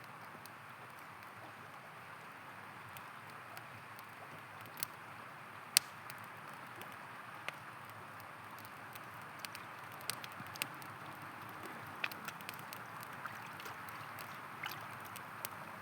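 A river flowing steadily under a campfire crackling, with sharp pops and snaps scattered throughout; the loudest pop comes about six seconds in.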